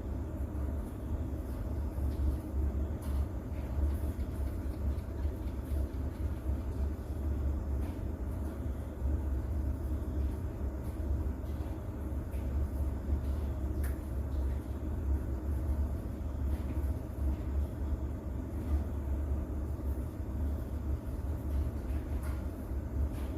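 Continuous rain-and-thunder ambience mixed with white noise: a steady deep rumble under a hiss, with faint ticks scattered throughout.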